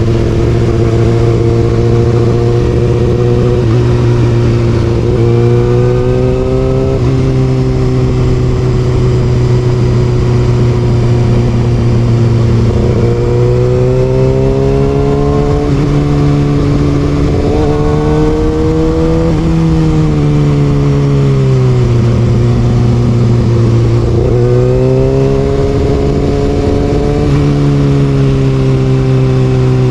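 Kawasaki Ninja ZX6R inline-four with an Austin Racing exhaust, ridden hard: the engine note climbs in pitch and falls back again several times.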